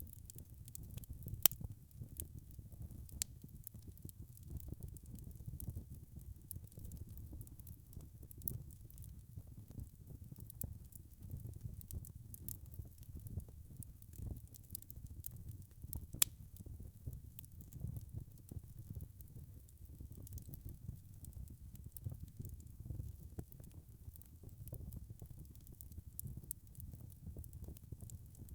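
Wood fire burning in a fireplace: a low, steady rumble of the flames with scattered small crackles throughout. Two sharper pops stand out, about a second and a half in and again near the middle.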